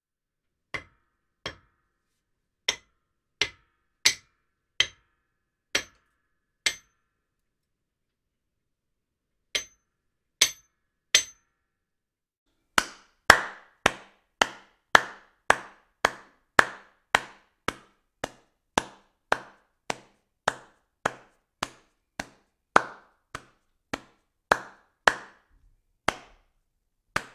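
A series of sharp single knocks or strikes, each with a short ring. They come spaced out at first, stop for a few seconds, then resume as a steady run of about two knocks a second.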